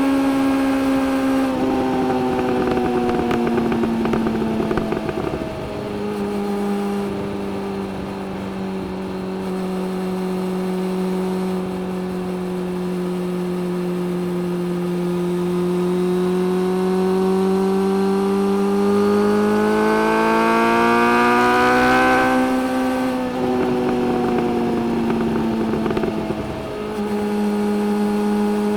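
Suzuki GSX-600F inline-four motorcycle engine under way. The revs ease off at first, hold steady, then climb slowly for several seconds as the bike accelerates. About two-thirds of the way through they drop quickly, then settle at a steady note near the end.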